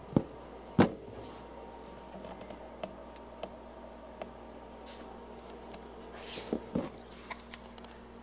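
Handling knocks: two sharp knocks within the first second, scattered small clicks, then two duller thumps near the end, over a steady low hum.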